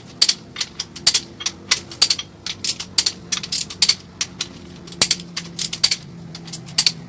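Click-type torque wrench ratcheting and clicking off as the main bearing cap bolts are rechecked at 65 foot-pounds: a fast, irregular run of sharp metallic clicks, several a second.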